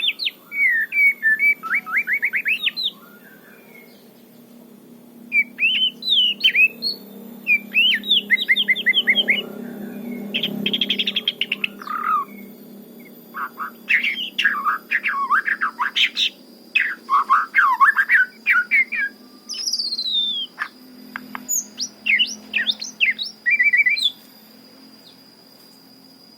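White-rumped shama singing in bursts of varied phrases (rapid trills, whistled notes and sweeping glides) separated by short pauses. A thin steady high tone joins about two-thirds of the way through.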